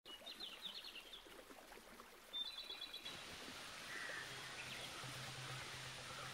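Outdoor ambience with a small bird's quick, high chirping trills, two short runs in the first three seconds. After that, an even background hiss with fainter bird calls, and a low steady hum that comes in about four seconds in.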